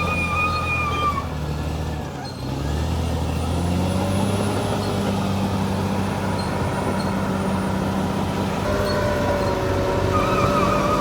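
Bulldozer's diesel engine running under load. Its note drops briefly about two seconds in, then picks up again and holds. High, thin squealing tones ride over it at times.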